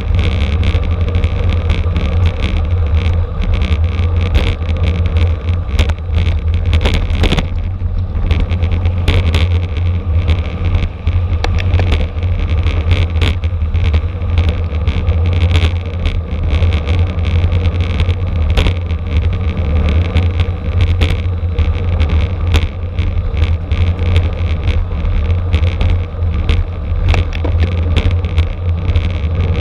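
Wind rushing over the microphone of a bicycle-mounted camera at racing speed, a steady low rumble, together with road and drivetrain rattle that gives frequent small clicks.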